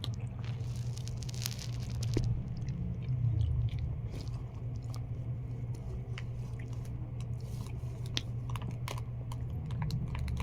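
Close-up chewing and biting while eating balot (fertilized duck egg), with scattered short crunches and clicks. A steady low hum runs underneath.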